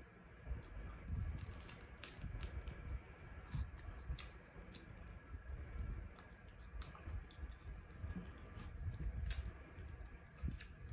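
Close-up eating sounds of a woman biting and chewing fried fish: irregular small crunches and wet mouth clicks over soft low thuds, with the sharpest clicks about two seconds in and again near the nine-second mark.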